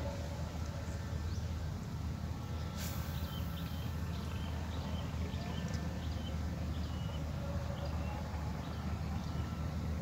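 Small birds chirping over and over, about two short calls a second, over a steady low hum. A brief hiss about three seconds in.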